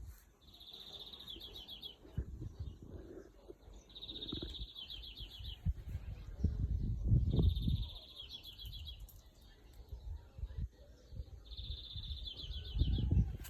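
A bird singing the same short, high trilled phrase four times, one every three to four seconds, over an uneven low rumble.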